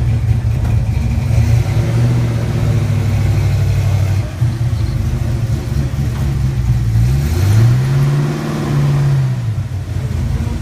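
Car engine idling with a low steady note, then revved about seven seconds in: the pitch rises, holds for about two seconds, and drops back to idle near the end.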